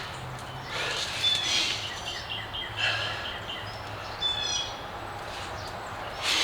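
Birds chirping and trilling in short bursts several times, over a faint low steady hum.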